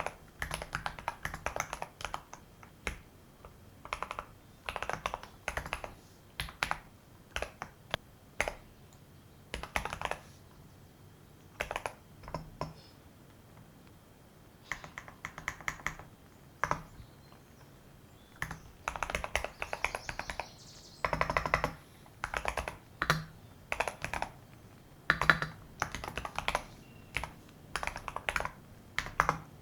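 Typing on a computer keyboard: bursts of rapid keystrokes separated by short pauses.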